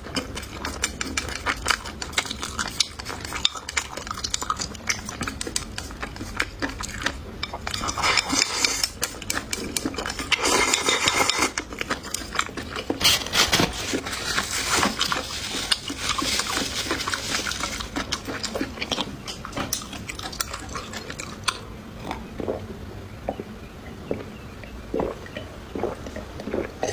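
Eating at close range: utensils clicking and scraping against dishes as food is picked up and chewed, in a string of short clicks and knocks with busier stretches in the middle.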